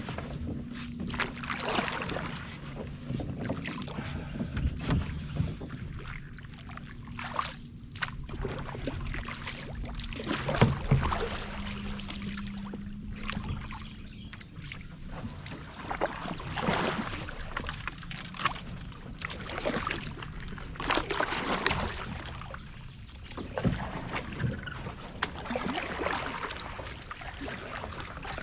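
Canoe paddle strokes dipping and pulling through calm water, one every couple of seconds.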